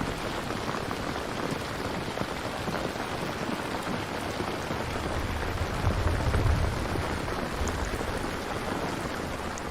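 Steady, dense rainfall hissing throughout. A low rumble of distant thunder swells about six seconds in and fades again.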